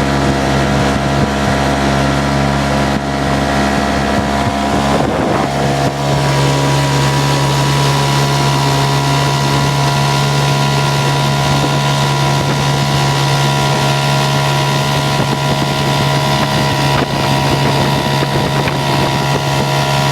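Montgomery Ward 7.5 hp outboard motor, built by Clinton, running steadily while pushing a small boat along. Its note shifts briefly about five seconds in, then it runs steady again.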